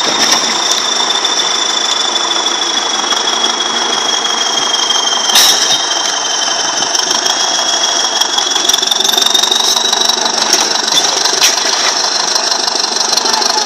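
A heavy machine's engine running steadily, with a high whine over it and a few sharp clicks or knocks, the loudest about five seconds in.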